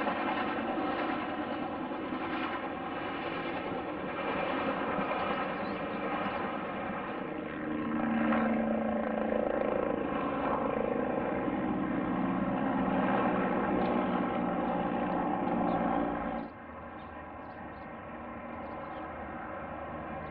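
Aircraft engines running steadily, a dense whine of many even tones over a rushing noise. The sound drops abruptly about three-quarters of the way through and carries on quieter.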